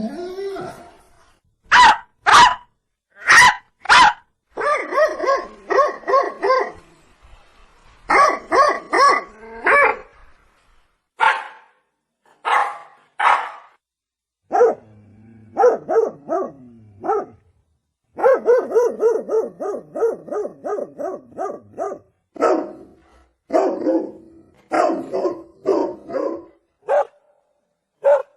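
Dog barking repeatedly: single sharp barks alternate with quick runs of several barks in a row.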